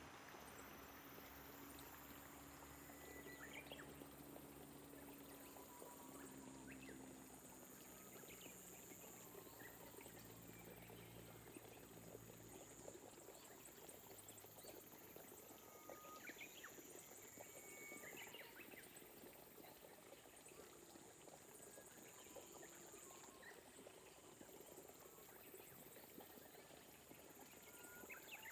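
Faint light rain falling steadily, with many small drip ticks. Scattered short animal calls and a high insect trill starting and stopping run through it. A low hum fades out about halfway through.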